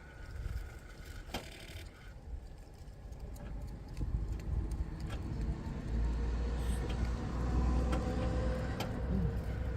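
Car engine running with an abnormal noise: a low rumble that grows louder about four seconds in and stronger still from about six seconds, with a single sharp click about a second and a half in.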